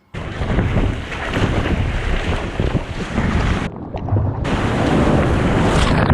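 Strong wind buffeting the microphone over the sound of the sea and waves, starting suddenly, with a brief dip in the hiss a little before halfway.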